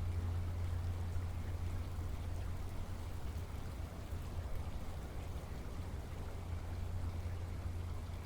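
Steady rainfall, an even hiss of drops with no distinct strikes, over a continuous deep low rumble.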